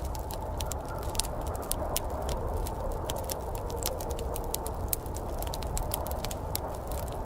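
Wood fire in a fireplace crackling, with frequent sharp, irregular pops over a steady low rushing noise.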